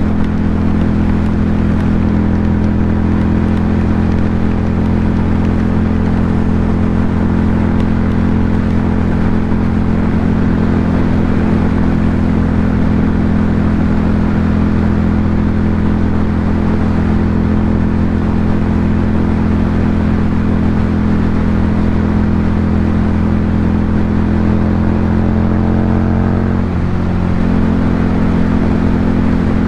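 Ducati Monster 797's air-cooled 803 cc L-twin engine running steadily through an SC Project aftermarket exhaust. Near the end the pitch briefly shifts, with a short dip in loudness, then steadies again.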